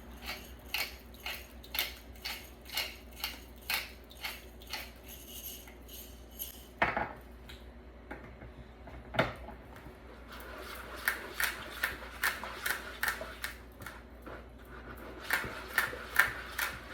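Kebab marinade being mixed in a bowl, the utensil clinking against the bowl about twice a second, with two louder single knocks about seven and nine seconds in.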